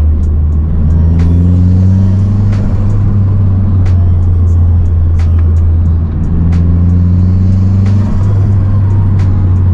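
Mazdaspeed 3's turbocharged 2.3-litre four-cylinder pulling hard through the gears, heard loud from inside the cabin. Its pitch climbs, drops with a gear change a little past halfway, then climbs again over a steady low drone.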